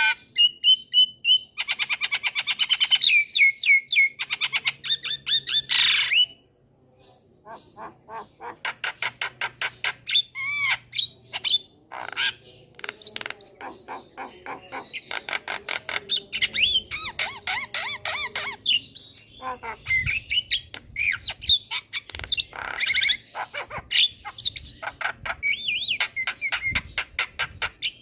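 Javan myna (jalak kebo) singing vigorously: fast runs of harsh chattering notes and squawks mixed with short whistled glides, with a brief pause about six seconds in.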